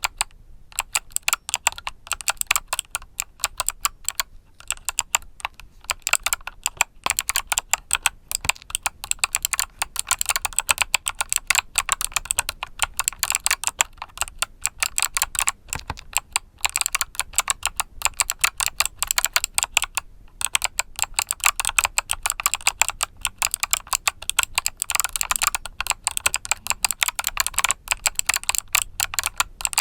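Continuous fast typing on a mechanical keyboard with Kailh Box summer switches, a dense stream of key clicks with only brief pauses.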